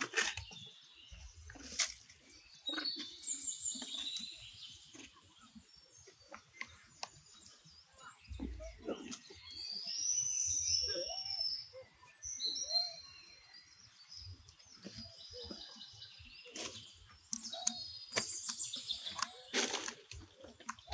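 Birds chirping and calling in short, high phrases scattered throughout, over soft clicks and rustles.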